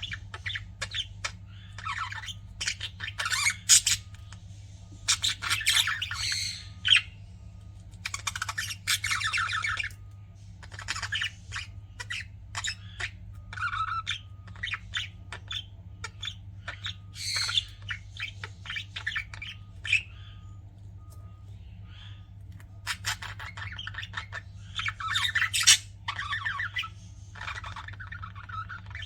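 Budgerigars chirping and chattering in irregular bursts of quick, harsh squawks and warbles, over a steady low hum.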